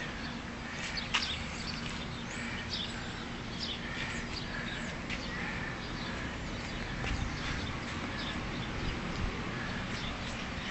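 Outdoor ambience: scattered short bird chirps over a faint steady hum.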